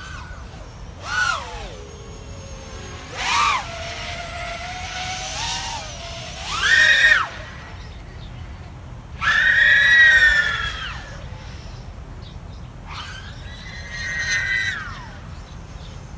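Brushless motors of an Eachine Diatone ER349 3-inch FPV quadcopter whining in flight, running on Betaflight 3.5.1 with AndyRC's PID tune and 48 kHz ESC PWM. A lower steady whine is broken by about five throttle punches whose pitch climbs and falls again; the longest and loudest comes about nine seconds in.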